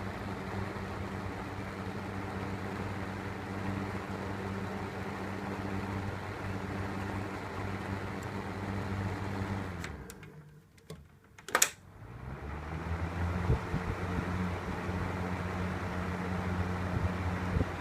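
1980 Daiken EK-2525G ventilation fan's motor running with a steady hum. About ten seconds in it winds down almost to silence, a sharp switch click follows, and the fan spins back up to speed.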